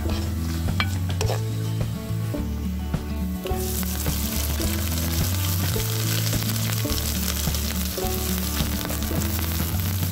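Chopped young jackfruit (polos) added to hot coconut oil in a clay pot and stirred with a wooden spoon. The frying sizzle jumps sharply louder about three and a half seconds in as the jackfruit hits the oil, and stays loud. Low background music tones run underneath.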